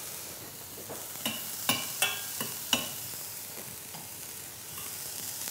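Food frying in butter and olive oil, a steady sizzle, while a utensil stirring leeks and mushrooms in a stainless steel pot clinks against the metal about five times near the middle.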